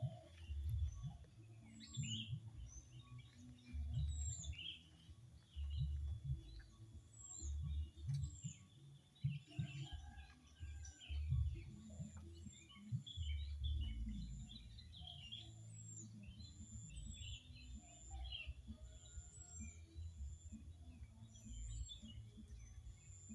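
Birds chirping, with many short chirps and a thin high call repeating about every second and a half, over an uneven low rumbling noise.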